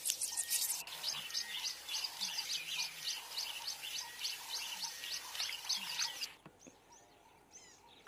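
Birds chirping: a quick run of short, high chirps, about three a second, that falls away about six seconds in, leaving only a few faint chirps.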